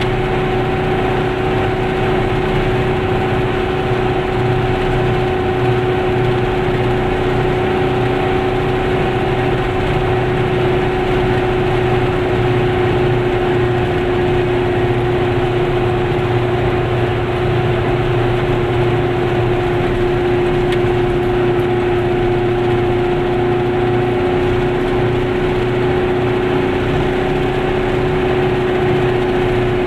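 Glas Goggomobil's small air-cooled two-stroke twin engine running at steady cruising speed, a constant drone with road noise, heard from inside the car.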